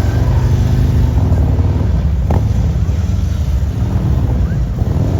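Motorcycle engine running steadily at low speed, with a slight flutter and small rises and falls in level. A single short sharp click comes a little over two seconds in.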